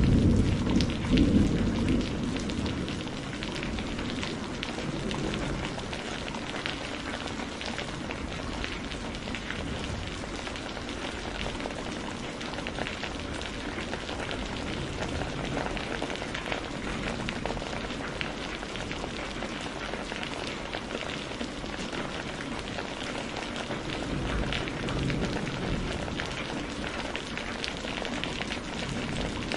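Steady rain falling, a dense hiss of drops, with the tail of a low thunder rumble dying away over the first couple of seconds.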